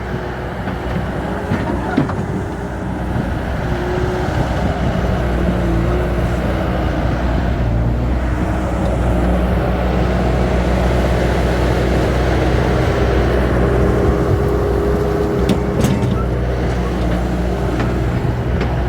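Engine of a heavy earthmoving machine running steadily as it works, loading dirt into a dump truck. It gets a little louder through the middle, with a few sharp knocks about two seconds in and near the end.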